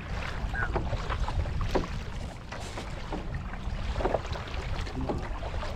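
Wind buffeting the microphone as a steady low rumble, with the wash of sea water around a moving fishing kayak.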